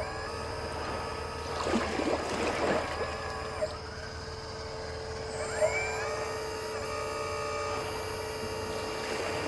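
Hydraulic RC excavator's pump and motors whining, the pitch rising, holding and falling again as the controls are worked, over a steady hum. A rough, noisy burst comes about two seconds in.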